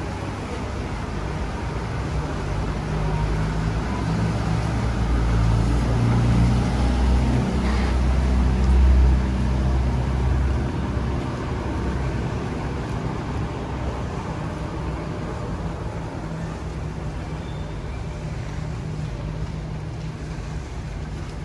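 Street ambience in the rain: a steady hiss of rain and wet traffic. A vehicle's low engine rumble swells and passes close about halfway through, then fades.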